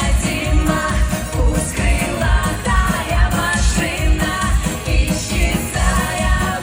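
A live pop song: a sung vocal over a band with a steady, regular beat.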